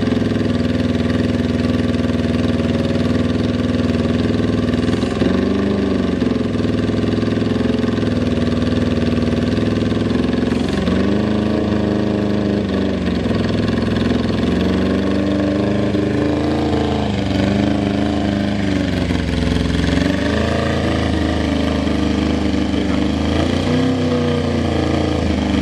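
Suzuki Bandit 400 VLT inline-four engine idling steadily with no abnormal noise. Its pitch rises and falls gently several times with light blips of the throttle. Compression is uneven across the four cylinders (900/750/900/700 kPa).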